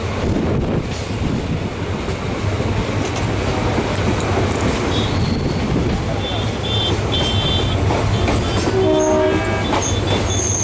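Passenger train running on the rails: a steady rumble with short high squeals from the wheels, and a brief pitched tone about nine seconds in.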